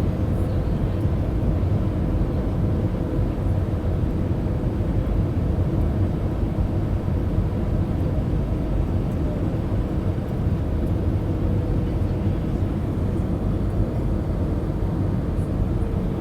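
Airbus A319 airliner in flight, a steady low roar of engines and airflow with faint steady hums on top, unchanging throughout.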